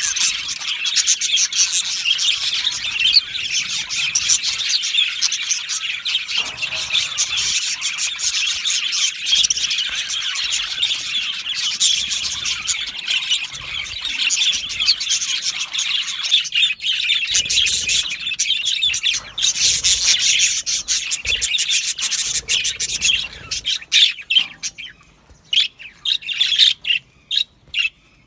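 A flock of budgerigars chattering and chirping, many birds at once in a dense, continuous twitter. Near the end the chatter thins out into separate short chirps with brief pauses between them.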